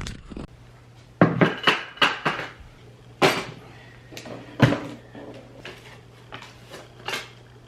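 Metal tools clattering as someone rummages through a toolbox: a string of sharp clanks and clicks, the loudest in a quick run a little over a second in and two single knocks at about three and four and a half seconds.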